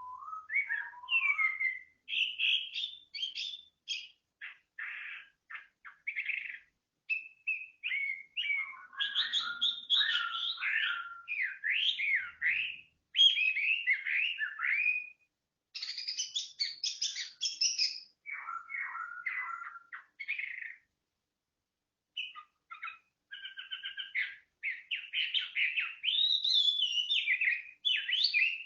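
A songbird singing a long, varied string of fast whistles, trills and chirps, pausing for about a second and a half roughly two-thirds of the way through.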